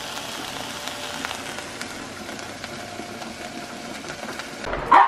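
Steady sizzling from a pot of ground beef, onion and green pepper browning on the stovetop, with a few faint ticks. A brief loud sound cuts in right at the end.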